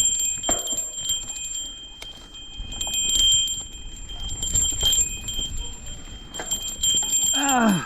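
Mountain bike riding over a trail, with a low rumble and scattered rattles and clicks, under a steady high-pitched ringing tone.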